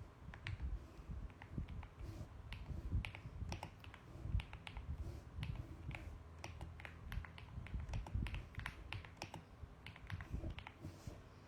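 Mechanical keyboard being typed on: irregular keystroke clicks in quick runs with short pauses between them.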